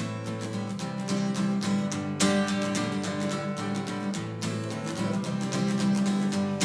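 Acoustic guitar strummed in a steady rhythm, playing the instrumental accompaniment of a folk song between verses.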